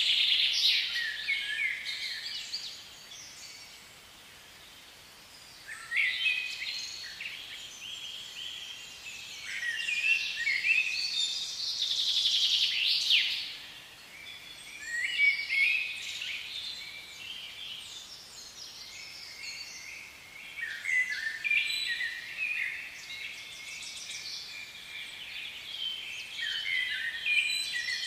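Songbirds singing: quick chirping and trilling phrases that come in several bursts, with short quieter gaps between them.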